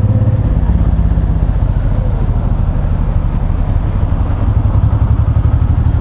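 Honda VTX1800's big V-twin engine running steadily at low speed in traffic, a dense, even run of low exhaust pulses.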